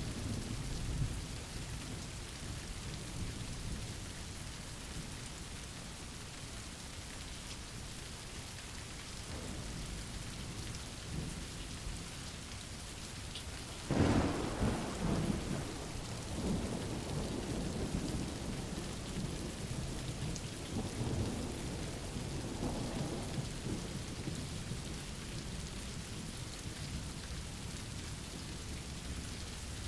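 Steady rain, with a sudden clap of thunder about halfway through that rolls on for several seconds.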